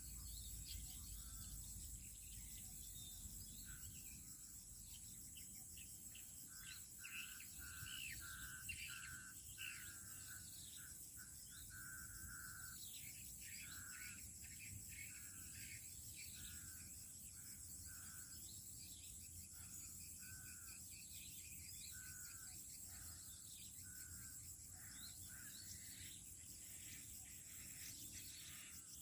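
Faint natural ambience: insects trill steadily and high, and a bird calls in many short, repeated chirps through the middle.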